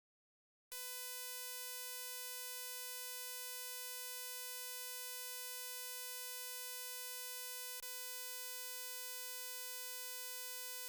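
A steady, unchanging electronic buzzing tone with a rich, buzzy edge, starting about a second in after dead silence, with one brief click about seven seconds in.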